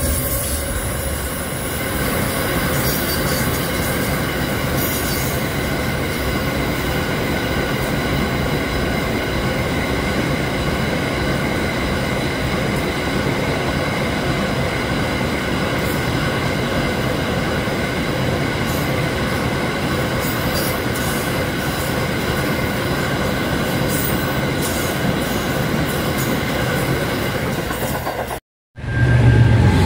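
Aurizon minerals freight train's wagons rolling steadily past at a level crossing: a continuous rumble and rattle with a steady high whine of several tones over it. It cuts off suddenly near the end.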